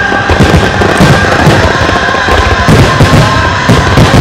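Rapid barrage of aerial firework bursts, a dense run of overlapping booms with no gaps, with music playing over it.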